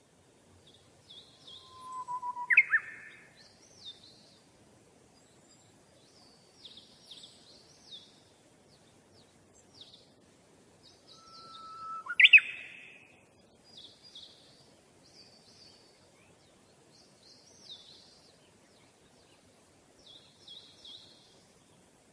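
Birds chirping: runs of short, high chirps throughout, with a louder two-part call (a short held note, then a sharp sweeping call) about two seconds in and again about twelve seconds in.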